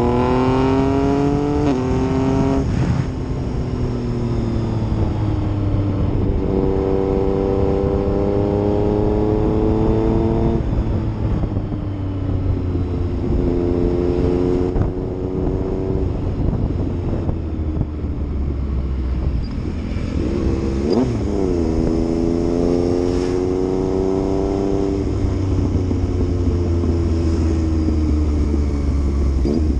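Yamaha MT-09's three-cylinder engine on the move, its pitch climbing and falling several times as the rider accelerates and backs off. There is a quick, sharp rev blip about two-thirds of the way through.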